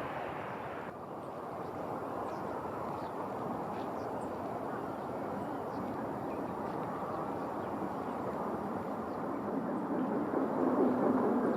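Steady outdoor background noise, a low rushing hiss that grows a little louder near the end, with a few faint, short, high bird chirps.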